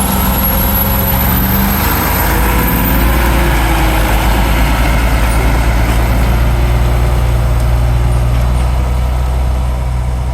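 Fire truck's diesel engine running steadily, a loud low hum with a faint high-pitched whine above it.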